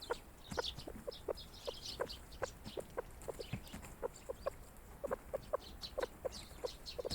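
Flock of grey partridges giving short, soft clucking calls, several a second in an irregular patter, with small birds' high short chirps among them.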